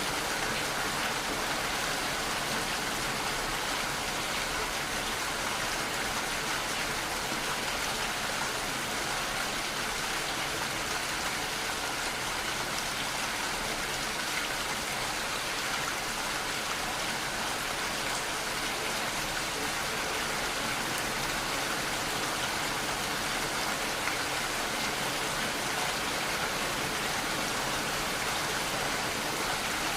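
Steady rainfall, an even hiss of rain with no breaks or thunder.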